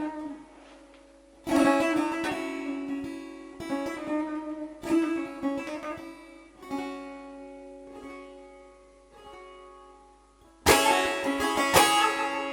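A three-string kopuz, a Turkish long-necked lute, played in a free improvisation: short plucked phrases ring out and fade over a steady open-string drone, then loud, fast strumming starts near the end.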